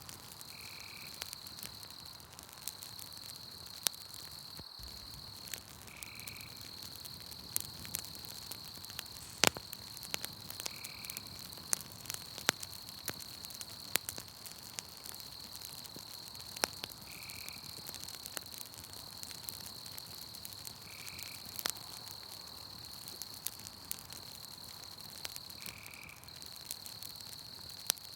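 Campfire crackling with frequent sharp pops over a continuous high insect trill, crickets, that breaks off briefly now and then. A short call repeats every four to five seconds.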